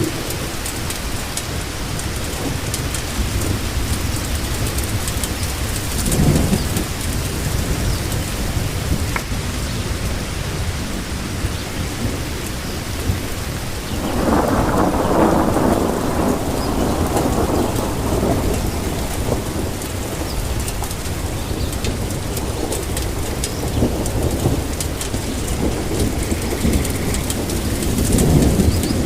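Steady rain falling, with thunder rumbling under it. The biggest roll of thunder comes about halfway through and lasts several seconds, and shorter swells come early on and near the end.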